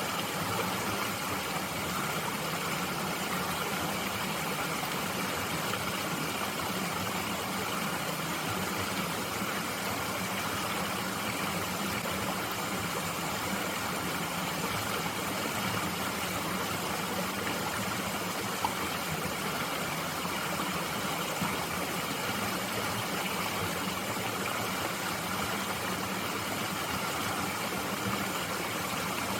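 Mountain stream flowing steadily, a constant even rush of water with no change in level.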